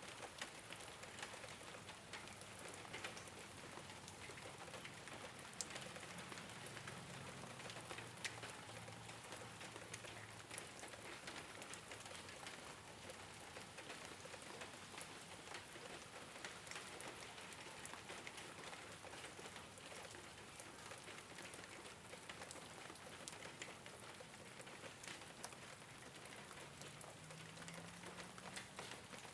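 Rain falling on a rooftop: a steady, faint hiss dotted with many small drop ticks.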